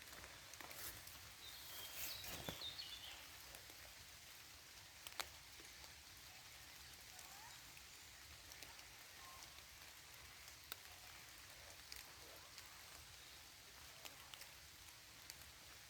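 Light rain in a forest, a faint steady patter with scattered single drops hitting close by. About two seconds in there is a brief, louder burst of higher sound.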